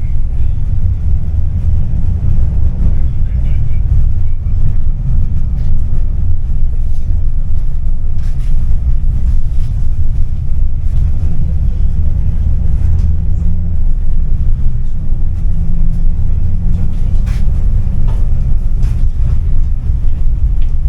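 Tram running between stops, heard from inside the passenger cabin as a steady low rumble, with a few faint knocks about halfway through and near the end.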